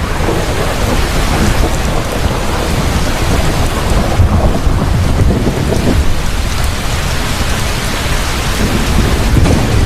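Heavy rain falling steadily with deep rolling thunder underneath: a thunderstorm.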